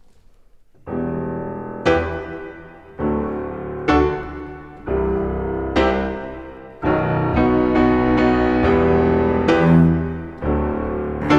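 Piano playing a slow run of chords, about one struck chord each second, each left to ring and fade, starting about a second in.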